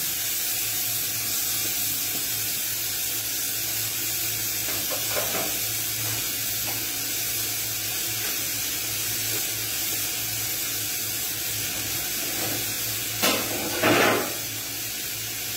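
Sliced onion and bacon rashers sizzling in a hot frying pan, a steady even hiss. Near the end come two brief, louder noises about a second apart.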